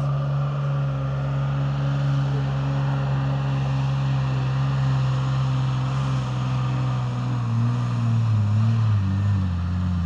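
Mercedes-Benz Unimog diesel engine pulling hard at steady revs up a steep sand dune, its note then sagging lower from about seven seconds in as the truck loses momentum and runs out of gearing short of the top.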